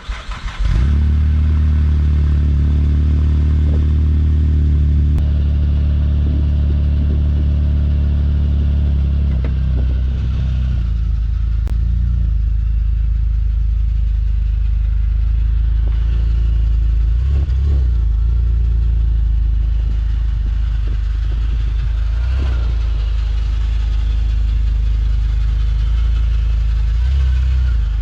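Vauxhall Vectra C VXR's 2.8 turbo V6 catching just under a second in, then idling steadily.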